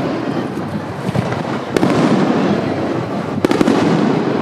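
Aerial fireworks bursting overhead: a steady rumble of booms, with a sharp crack about two seconds in and two or three more in quick succession about three and a half seconds in.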